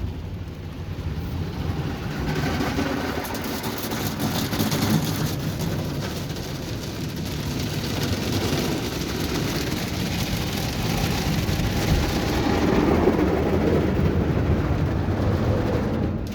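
Ryko Voyager II in-bay car wash spraying water over the car, heard from inside the cabin: a steady hiss and patter of spray on the body and windows, growing louder toward the end.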